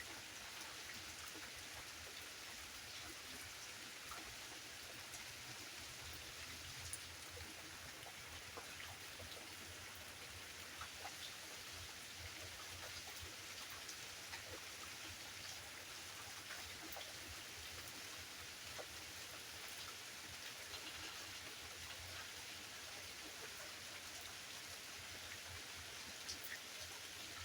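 Steady rain falling, with scattered clicks of individual drops.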